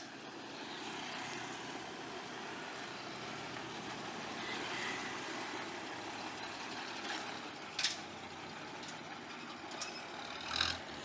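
A heavy truck running with a steady rumble and hiss, broken by short, sharp bursts of noise about eight seconds in and again near the end.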